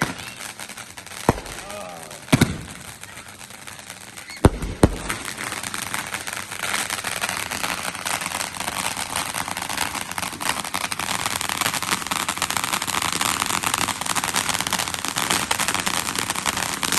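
Fireworks going off: a few sharp bangs in the first five seconds, then a long run of dense, rapid crackling like a string of firecrackers.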